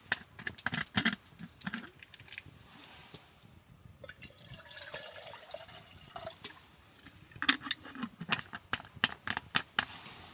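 Liquid poured into a container; its pitch rises as the container fills, about halfway through. Before and after the pour there are runs of small clicks and clinks from handling utensils or cookware.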